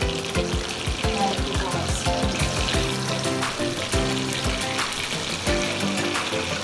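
Chicken pieces frying in oil with a steady sizzle. Background music with a steady beat plays over it.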